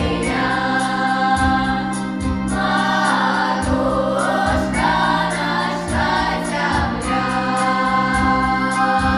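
Live concert performance: several voices singing together over an instrumental backing with a steady beat.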